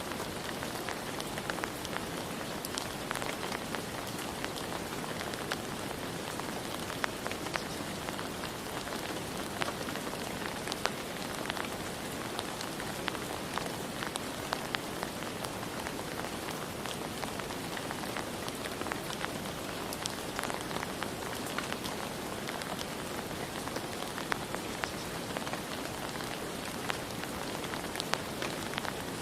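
Steady rain falling, a continuous hiss with many separate drops ticking and pattering on surfaces.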